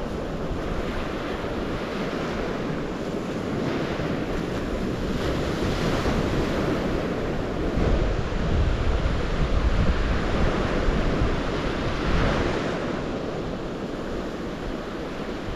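Waves washing onto the shore in a steady wash, with surges every several seconds. Wind buffets the microphone with a low rumble, heaviest in the middle.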